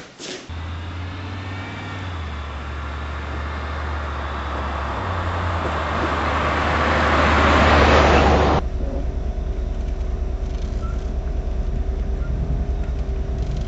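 A motor vehicle's engine and road noise, building up over about eight seconds. It then cuts abruptly to a steadier low engine rumble.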